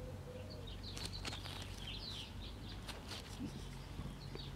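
Quiet room tone with a low steady hum, a few light clicks as the small air-variable tuning capacitor is handled, and faint bird chirping in the background that grows busier near the end.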